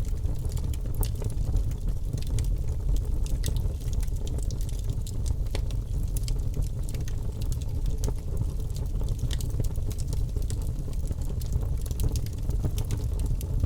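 Wood fire burning steadily in a fireplace: a constant low rumble of the flames with frequent small crackles and pops.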